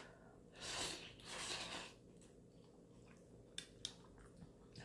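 A person breathing twice close to the microphone, soft hissy breaths about half a second each, followed by two short clicks.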